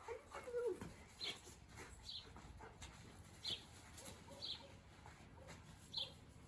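A bird chirping repeatedly: short high chirps about once a second. A short call falls in pitch near the start.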